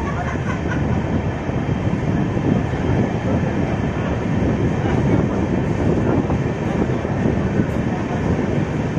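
Padatik Express passenger train running steadily along the track, an even, continuous rumble of wheels and coaches.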